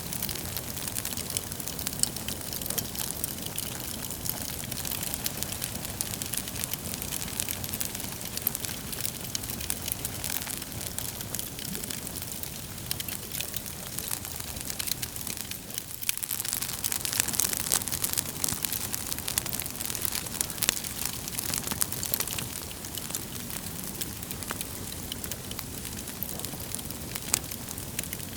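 Wood fire in a fireplace burning with a steady hiss and frequent small crackles and pops from the logs.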